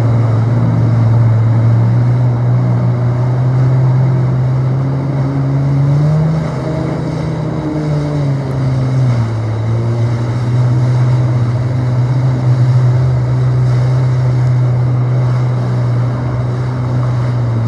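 Jet ski engine running at a steady pitch, rising briefly about six seconds in and settling back a couple of seconds later, then dropping off near the end.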